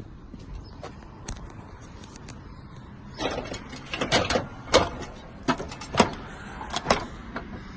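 Knocks and short scrapes on 3-tab asphalt roof shingles, a quick cluster of them starting about three seconds in and stopping shortly before the end.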